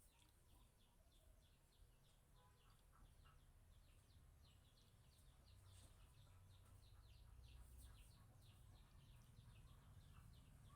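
Near silence: faint small birds chirping over and over in the background, a few chirps a second, over a low hum.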